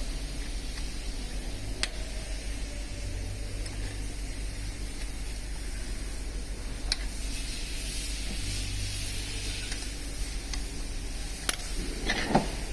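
Workshop sounds during an engine teardown: a few sharp metallic clicks a few seconds apart and a short clatter near the end, over a steady low hum.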